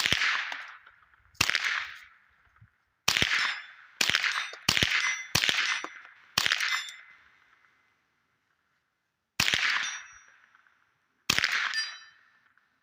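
Custom 10/22 .22 LR rifle with a Dead Air Mask suppressor firing CCI ammunition: nine semi-automatic shots at uneven intervals, each a sharp crack followed by a metallic ringing tail of about a second. The rifle cycles every round with the CCI, where it would not run Aguila.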